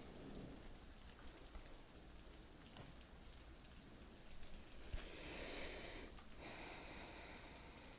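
Steady rain falling, heard faintly as a soft even hiss, with a small click about five seconds in.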